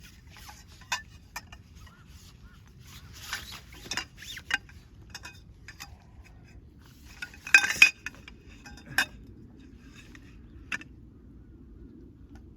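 Metal camping gear clinking and rattling as it is handled and packed away. Scattered sharp clinks, the loudest cluster about seven and a half seconds in.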